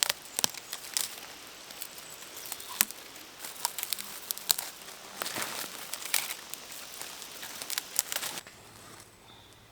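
Dry pine needles and twigs being gathered and handled as fire tinder: irregular crinkling rustle and sharp little snaps, which stop about eight and a half seconds in.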